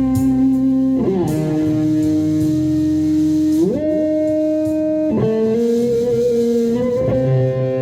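Electric guitar playing a slow lead line of long held notes over a backing track, sliding or bending between pitches: down about a second in, up near the middle, and down again just after.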